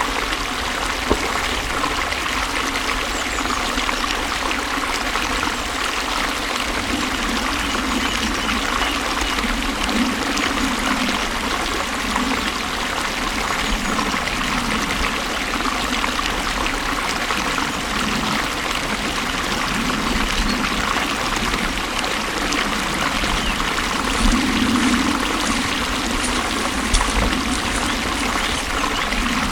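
Water flowing and gurgling steadily, with a couple of slightly louder splashes near the end.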